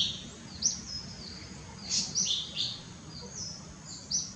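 Small birds chirping: short, high chirps and quick falling notes in little clusters, busiest about two seconds in and again near the end, over a faint low background rumble.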